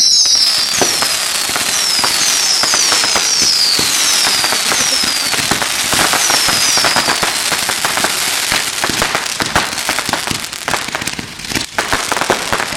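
A 4,000-shot firework cake firing continuously: dense rapid crackling shots, with many short whistles falling in pitch over the first half, and a brief lull near the end.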